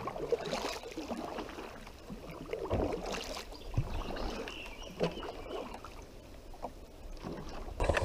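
A kayak on the water: irregular water sloshing and handling noises against the hull, louder about a third of a second in and again about three seconds in.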